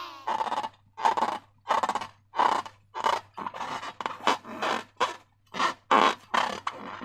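Slime being squeezed and worked by hand, making short wet squelches, about a dozen in a steady rhythm of one every half-second or so.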